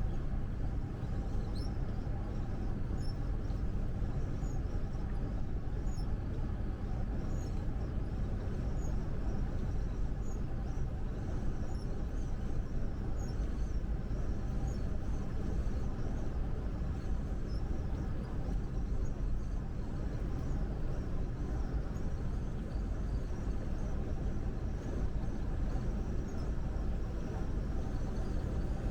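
Steady rumble of a truck driving on the highway: engine and road noise heard from inside the cab, with faint scattered ticks.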